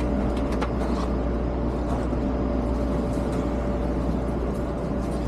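Steady low rumble and hum inside a passenger train car, with one constant tone running through it and a few faint clicks about half a second to a second in.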